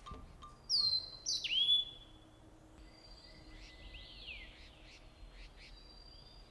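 Forest birds calling: two loud, sharp whistles that slur downward about a second in, followed by fainter high twittering and short chirps.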